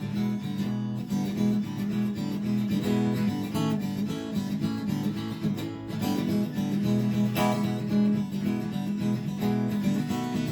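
Acoustic guitar strumming chords in a steady rhythm, an instrumental break in the song with no singing.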